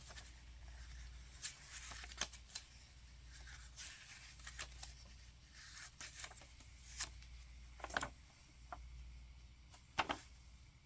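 Pages of a small paper DVD booklet being flipped quickly by hand: faint paper rustling with scattered soft ticks and flicks as each page turns.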